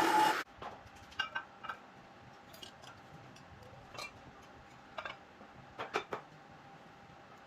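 A loud steady noise cuts off sharply about half a second in, followed by scattered light metallic clicks and clinks, a few in quick pairs, like small metal parts or tools being handled.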